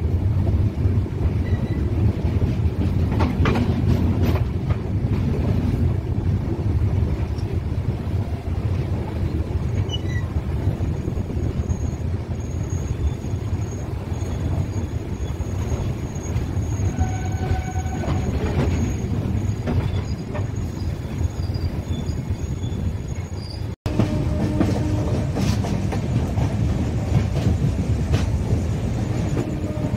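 A passenger train running along the track: a steady low rumble of wheels on rail. A thin, high wheel squeal comes and goes through the middle stretch. The sound cuts out for an instant about three-quarters of the way through.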